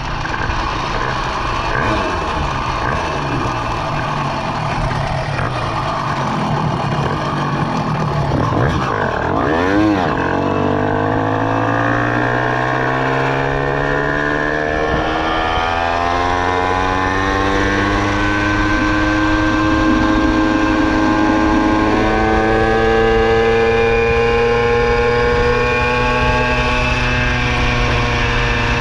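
Two-stroke Minarelli vertical engine on a motorized bicycle running hard and rough at first. About ten seconds in its pitch drops sharply and comes straight back. After that it settles into a clear, steady engine note that rises slowly as it gains speed.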